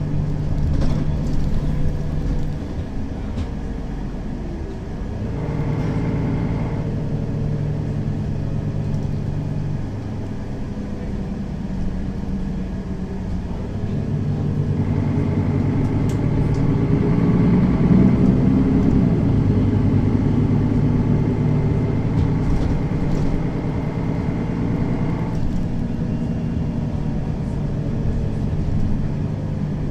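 Mercedes-Benz Citaro facelift city bus driving between stops, its diesel engine running and stepping in pitch through gear changes. A high steady whine comes in briefly a few seconds in and again for about ten seconds midway.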